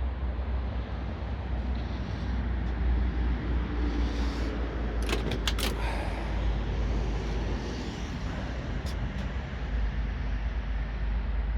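The 1967 Buick GS 400's 400 V8 idling steadily with a low, even rumble. A few sharp clicks sound about five seconds in and once more near nine seconds.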